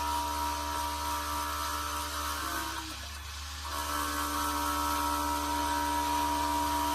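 Custom-built automatic prayer-bead turning machine running steadily while it cuts a bead, with a steady machine tone. The tone drops and shifts about two and a half seconds in and comes back about a second later.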